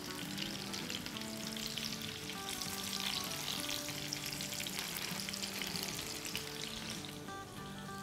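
Chicken seekh kababs sizzling and crackling as they shallow-fry in oil in a pan while they are turned with a silicone spatula. The sizzle is strongest mid-way and eases a little near the end.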